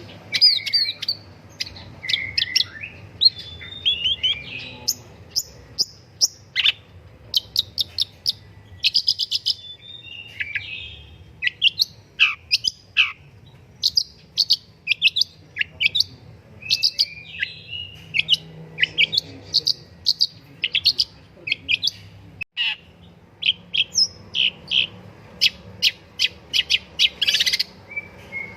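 Long-tailed shrike (pentet) singing vigorously: a varied, fast-changing song of sharp chirps, rapid rattling note strings and a few downward-sliding whistles.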